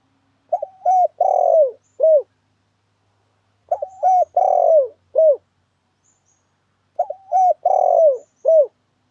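Spotted dove (tekukur) cooing its song, played as a looped lure call: three identical phrases about three seconds apart, each a few short falling coos around one longer, louder coo.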